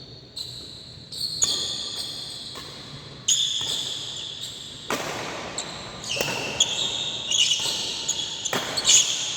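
Badminton rally: repeated sharp racket strikes on the shuttlecock, about ten in all, irregularly spaced, with high squeaks between hits from shoes on the court floor, in a reverberant hall.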